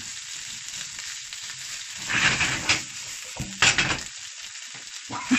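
Diced potatoes and sausage sizzling in olive oil in a frying pan, turned over with wooden chopsticks. The sizzle runs steadily, with louder spells of stirring about two seconds in, again at about three and a half seconds, and near the end.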